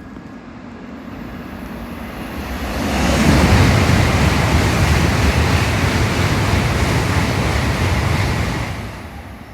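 An N700A Shinkansen trainset passing through a station at high speed: an even rush of air and wheel noise that builds over the first three seconds, holds loud for about five seconds, then falls away near the end.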